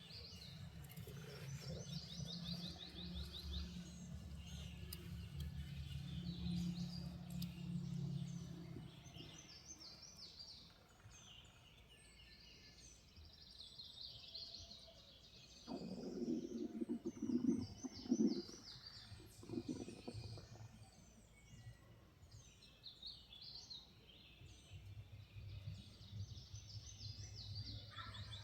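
Songbirds singing in spring woodland, many overlapping chirps and trills. A low hum sits under them for the first several seconds, and a louder, lower burst of sound comes from about sixteen to twenty seconds in.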